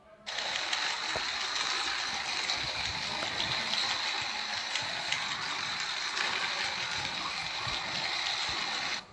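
Battery-powered toy elephant train running, its small motor whirring with a steady high whine and scattered clicks; it starts abruptly just after the beginning and cuts off just before the end.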